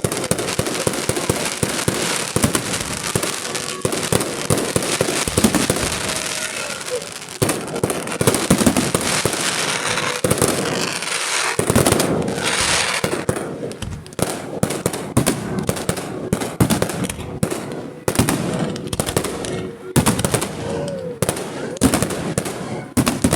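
Fireworks display going off, with dense crackling and bangs throughout. In the second half these become a rapid volley of sharp reports in quick succession.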